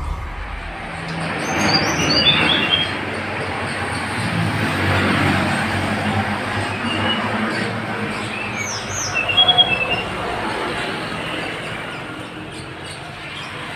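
Tledekan gunung (hill blue flycatcher) singing short, high whistled phrases: a falling run of notes about two seconds in, then more sliding notes about halfway through. A steady rushing background noise runs underneath.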